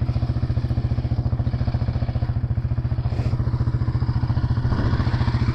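Dirt bike engine idling with a steady, even pulse, getting a little louder near the end.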